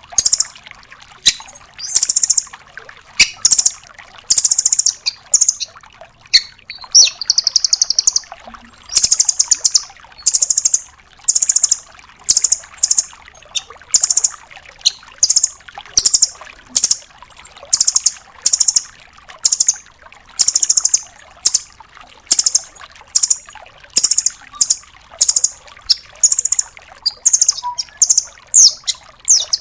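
Velvet-fronted nuthatch singing: a fast series of short, very high-pitched rattling trills, repeated about once a second. A few of the trills are drawn out longer, one about seven seconds in.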